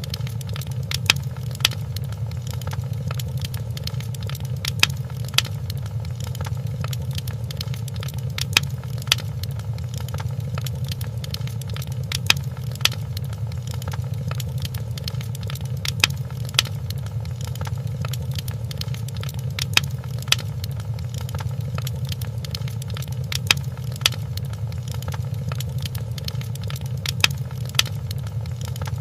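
Wood fire crackling in a fireplace: a steady low rumble with sharp pops, mostly in pairs about half a second apart, coming about every four seconds.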